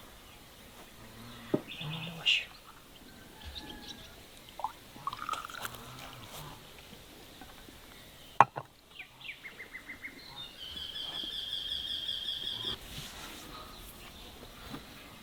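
Birds calling, ending in a fast run of repeated notes that becomes a rapid trill for about two seconds, with a few sharp knocks in between; the loudest knock comes a little past halfway.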